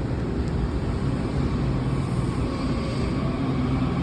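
Washington Metro subway train running with a steady low rumble and a faint hum of motor tones.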